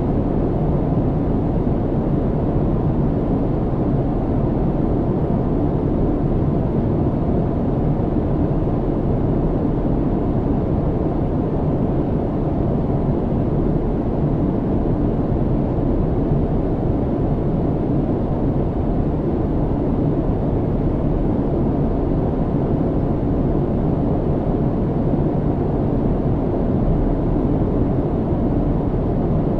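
Airplane cabin noise in flight: a steady, unbroken low rumble of engine and airflow, with a faint constant hum under it.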